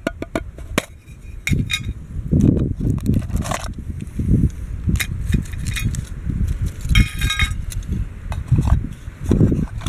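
Wind buffeting the microphone in uneven gusts, with scattered sharp clicks and clinks and a brief high ringing rattle about seven seconds in.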